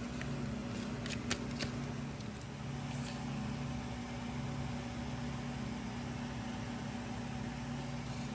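Steady low mechanical hum, like a running fan or appliance motor, with a few light clicks a little after a second in.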